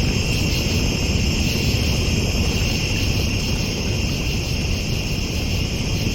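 Crickets chirring steadily in a high, even drone over a constant low rumble.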